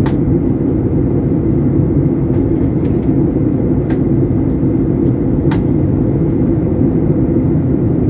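Steady roar of jet engines and airflow heard inside an airliner's passenger cabin during the descent for landing, with three faint clicks.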